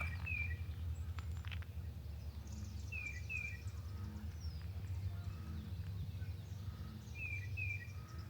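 A bird calling in pairs of short, high, falling notes about every three and a half seconds, over a steady low rumble of outdoor ambience.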